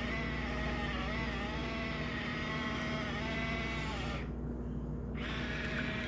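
Portable washing machine's motor running with a steady hum whose higher tones waver slightly. The sound goes briefly duller for about a second a little past four seconds in.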